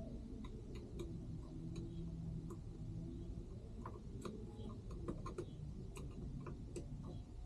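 Light, irregular clicks and ticks of small plastic and metal parts of a transmission control module being handled, over a low steady hum.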